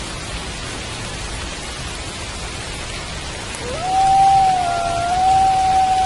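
Steady rain falling, with a wolf howl coming in about three and a half seconds in: a quick rise to one long held note, with a second howl briefly overlapping it, still going at the end.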